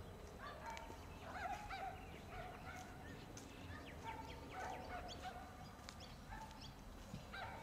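Birds calling in park trees: many short, arching chirps and lower warbling, gurgling notes from several birds, over a faint steady low background hum.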